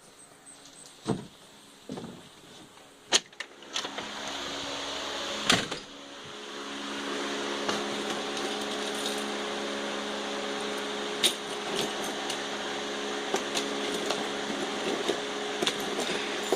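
A motor starts running with a rush of air, about four seconds in, settling into a steady hum, with scattered knocks and clicks over it.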